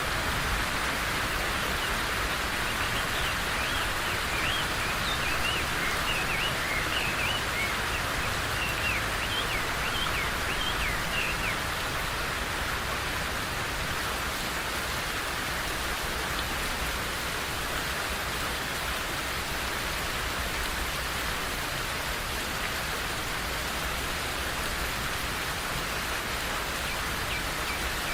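Steady rain falling, with a bird singing a rapid series of short chirps from about three to eleven seconds in and a few more chirps near the end.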